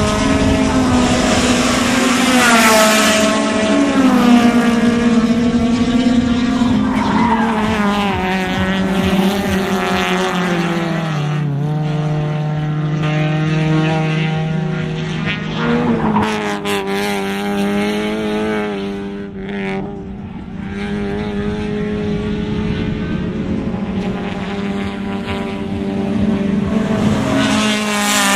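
Racing engines running hard, several overlapping, their pitch climbing and dropping through gear changes as they pass.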